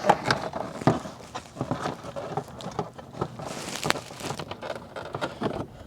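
Irregular clicks, taps and knocks of hand tools and hard plastic parts being handled during a car speaker install, with a brief rustle about three and a half seconds in.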